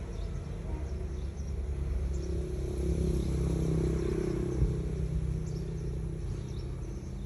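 Caterpillar 3412 V12 marine diesel running with a deep, steady rumble that grows louder for a few seconds midway and then eases back. A single short knock comes partway through.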